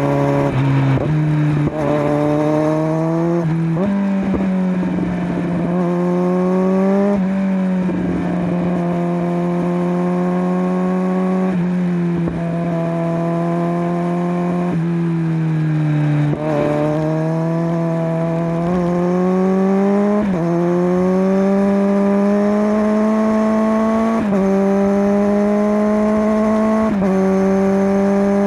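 Kawasaki Z900's inline four-cylinder engine through a LeoVince LV10 slip-on exhaust, heard on the move. The pitch climbs under throttle and drops back at each gear change. Partway through, the engine winds down off the throttle, then pulls up through several gears near the end.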